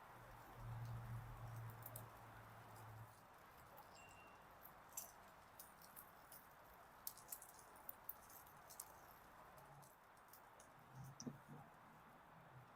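Near silence: faint steady hiss with a low hum over the first few seconds and scattered light clicks and ticks through the middle.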